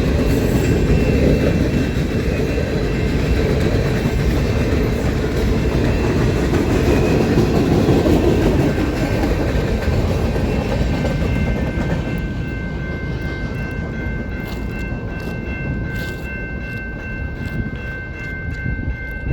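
Train rolling past with a loud, steady rumble of wheels on rail that eases after about twelve seconds. In the later part come clicks of wheels over rail joints and a steady high-pitched ringing tone.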